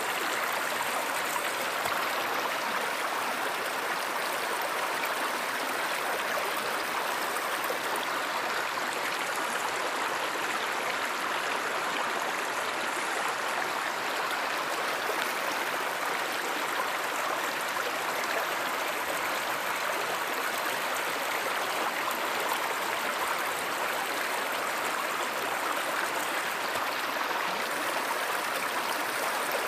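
Stream water flowing in a steady, even rush that does not let up.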